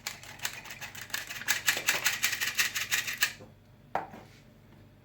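Small blender whisk beating kefir pancake batter in a bowl: rapid clicking of the wires against the bowl, about eight strokes a second, stopping a little past three seconds in, followed by a single knock.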